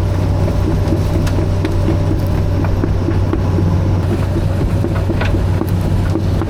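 Caterpillar 315B hydraulic excavator's diesel engine running steadily under work, with scattered short clicks and cracks over it.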